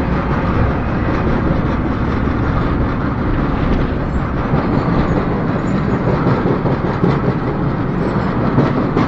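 Freight train rolling on the rails, heard from aboard a car: a steady, loud rumble of steel wheels on track with rattling and occasional faint clicks.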